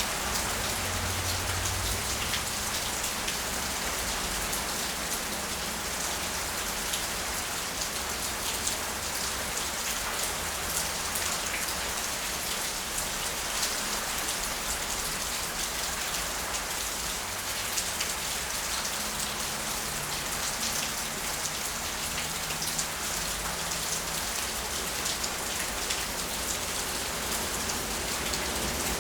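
Heavy storm rain falling and splashing on surfaces: a steady hiss, dense with the ticks of individual drops.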